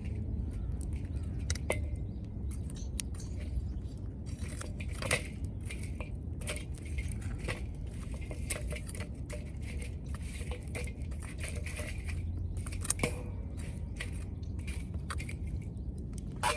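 Wood fire crackling with irregular sharp pops over a steady low rumble; the loudest pops come about 2, 5 and 13 seconds in.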